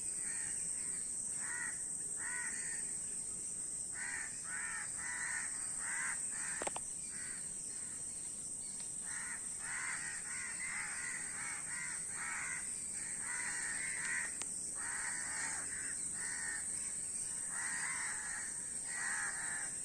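Several crows cawing, harsh calls coming in quick overlapping runs with short gaps, over a steady high-pitched whine.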